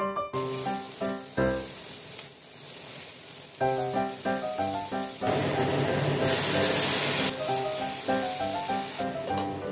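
Chopped vegetables sizzling in hot oil in a stainless steel frying pan while being stirred. The sizzle starts suddenly right at the start, grows louder about halfway through and is loudest around two-thirds of the way, as chopped tomatoes go into the pan. Piano music plays over it.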